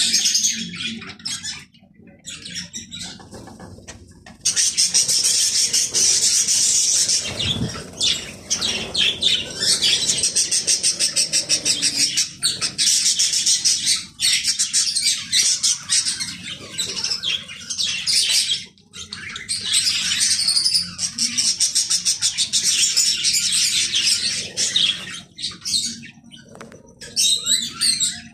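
A flock of budgerigars chattering and chirping continuously in dense, rapid, high-pitched warbles, easing off briefly a few times.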